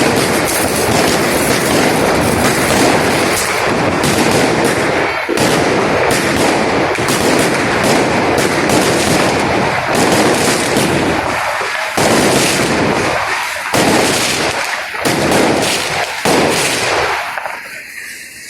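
Dense barrage of fireworks and firecrackers going off, bangs overlapping into a continuous crackle, thinning out near the end.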